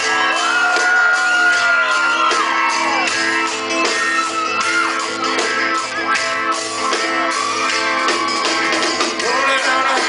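Live band playing a rock song with guitar, between sung lines, with voices singing and shouting over it in the first few seconds.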